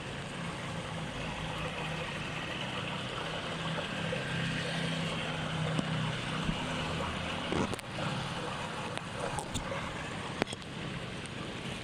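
Steady rush of heavy rain and flowing floodwater, with a low hum under it for the first several seconds and a few sharp knocks about two thirds of the way in and again near the end.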